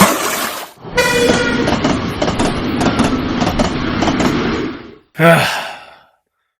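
Train sound effect: a short horn toot about a second in, then the steady noise of a train rushing past for about four seconds. A fading siren ends just before it, and a brief falling voice-like cry comes after.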